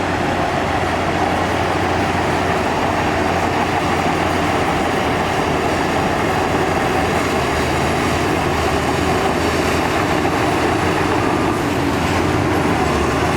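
Heavy diesel earthmoving machinery at work, its engine running steadily under load with a constant rumble and hum throughout.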